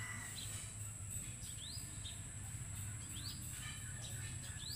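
Outdoor ambience: a bird gives short rising chirps about every second and a half over a steady high-pitched hum.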